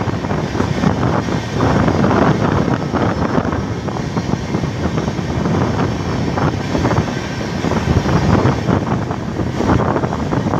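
Passenger train running, heard from on board: a steady rumble and rattle of wheels on track, with wind buffeting the microphone.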